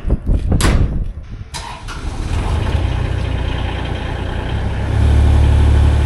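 A few sharp knocks, then a vehicle engine starts about a second and a half in and runs steadily, its low drone growing louder near the end.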